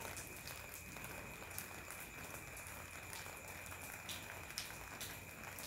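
Light rain falling on grass and ground at night: a faint, even patter with scattered single drops ticking, over a faint steady high tone.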